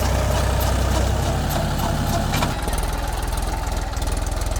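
Mahindra 275 DI TU tractor's three-cylinder diesel engine running steadily; about halfway through its low note changes abruptly and drops in strength.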